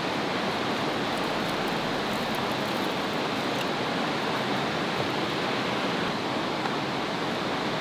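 Steady rush of running water, an even noise that holds at one level throughout.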